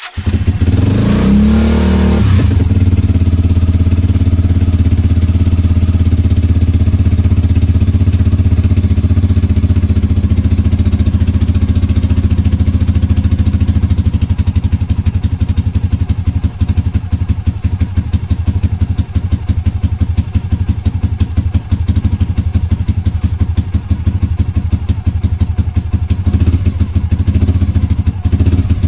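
Honda GB250's single-cylinder four-stroke engine starting up after a long lay-up. It revs up and back down over the first couple of seconds, then settles into a steady idle.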